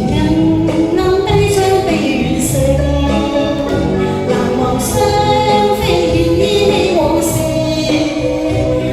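A song: a voice singing a gliding melody over continuous instrumental accompaniment.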